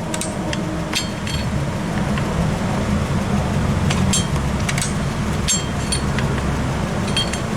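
Scattered sharp metallic clicks and clinks, about seven spread over several seconds, from a screwdriver and metal parts at a car's rear drum brake, where the star-wheel adjuster is being turned a click at a time to take up shoe clearance. A steady low traffic rumble runs underneath.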